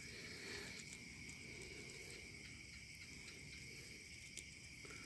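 Faint, steady chorus of crickets: a continuous high-pitched trill, with a few light ticks or rustles over it.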